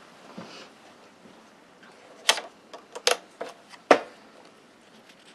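Paper and craft supplies being handled on a tabletop: light rustling, then a handful of sharp taps and clicks about two to four seconds in, the last the loudest.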